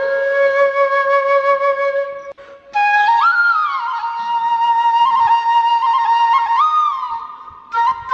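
Background music played on a flute: long held notes with slides between pitches over a steady lower tone, breaking off briefly about two and a half seconds in before a new phrase starts.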